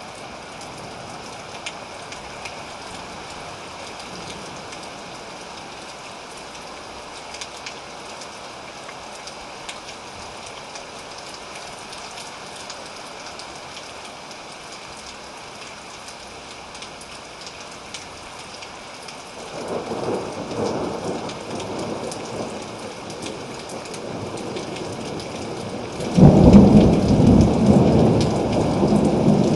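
Thunderstorm: steady rain hiss with scattered drop ticks. About two-thirds of the way through, a roll of thunder begins to rumble, and near the end a louder, deeper thunderclap breaks in suddenly and keeps rumbling.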